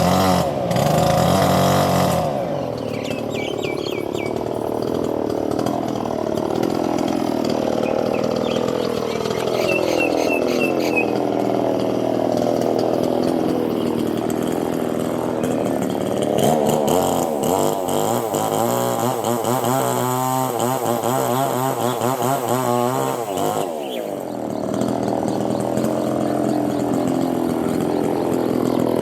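A small engine, chainsaw-like, running continuously, its pitch rising and falling slowly as it is revved; it dips briefly about 24 seconds in.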